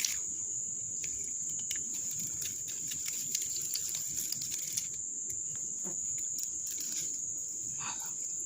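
Steady high-pitched insect chorus, with scattered light clicks and patter over it and a brief short call a little before the end.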